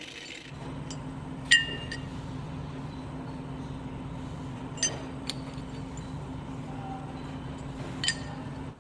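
A few sharp metallic clinks of steel parts or tools knocking together, each ringing briefly. The loudest comes about a second and a half in, and the others come about five seconds and eight seconds in, over a steady low hum.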